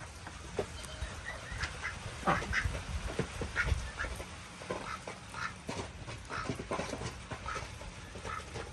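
Ducks quacking: many short calls, irregular and overlapping.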